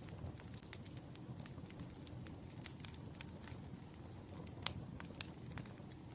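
Wood fire burning, with a steady low rumble and irregular sharp crackles and pops from the firewood; the loudest pop comes about four and a half seconds in.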